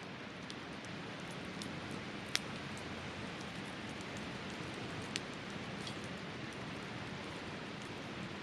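Campfire burning steadily, crackling with scattered small ticks and a sharp pop about two and a half seconds in and another about five seconds in, over the steady rush of a river.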